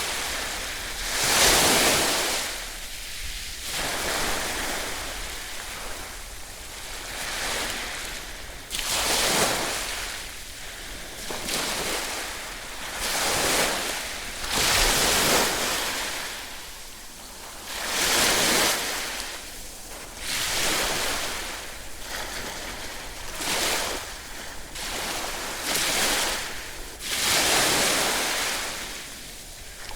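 Ocean surf: waves breaking one after another, each a rushing hiss that swells and falls away every two to four seconds.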